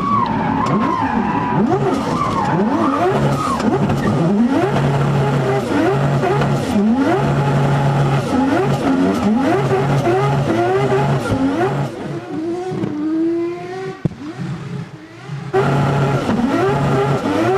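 A 1000 hp rotary engine in a drift car revving hard, its pitch repeatedly sweeping up and dropping back as it is worked on the throttle, with tyres squealing under wheelspin. About twelve seconds in it eases off and goes quieter for a few seconds, then pulls hard again near the end.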